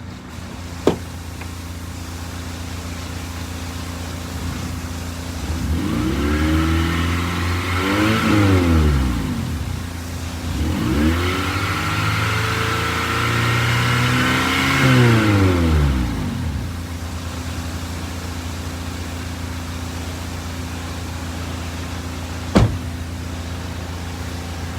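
2000 Honda Accord LX engine idling steadily, then revved twice. Each rev rises and falls back to idle over several seconds. A sharp click near the end.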